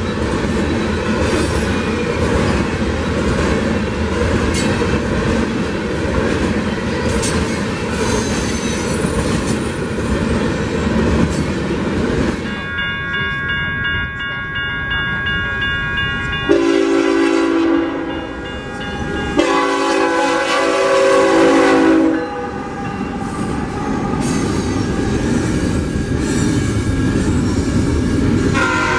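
Union Pacific freight cars rolling past with a steady rumble and wheel clatter. About halfway through, a locomotive air horn sounds in three long blasts. An intermodal double-stack freight then rolls through, with the horn starting again near the end.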